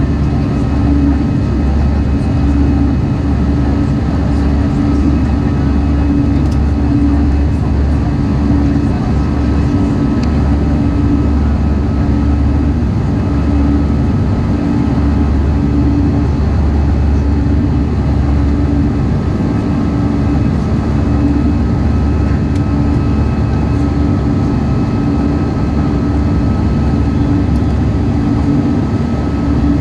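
Airbus A319 jet engines running with a steady, unbroken drone: a deep hum with a few steady tones above it.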